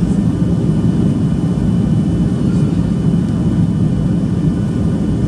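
Steady cabin noise of a Boeing 737-800, a constant low rumble of its CFM56-7B turbofans and the airflow, with a few faint steady tones above it.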